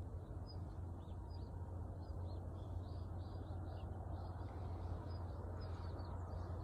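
Wild birds calling outdoors: a run of short, high chirps, many in quick succession, over a steady low rumble.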